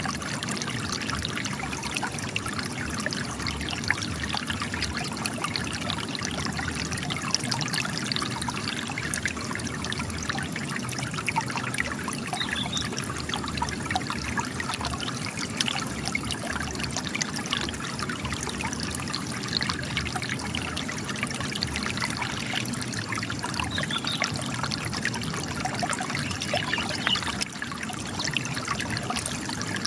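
Spring water trickling and splashing as it gushes from cracks in rock, a steady babble of small splashes.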